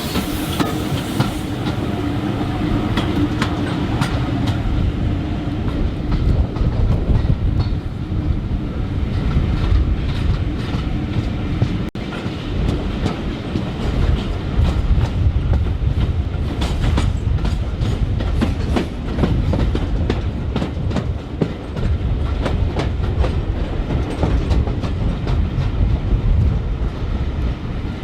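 Railway train running, its wheels clattering steadily over the rail joints, with a brief break about twelve seconds in.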